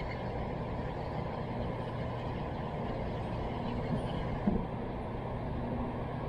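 Steady low rumble with a faint hum, and a single short click about four and a half seconds in.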